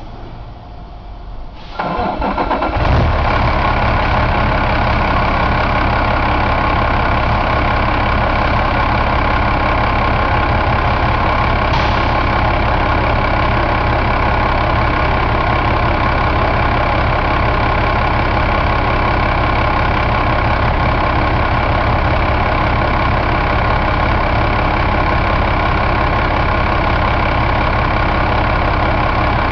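2009 Cummins ISX inline-six diesel engine being started: it cranks briefly about two seconds in, catches, and then idles steadily.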